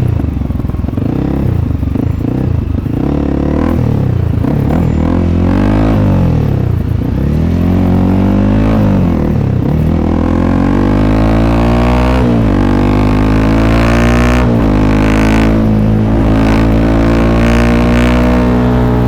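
Honda CRF300L's single-cylinder four-stroke engine running through an aftermarket FMF Q4 exhaust while riding: the revs rise and fall repeatedly in the first half. In the second half the engine pulls harder, its pitch climbing and dropping sharply twice as it shifts up a gear.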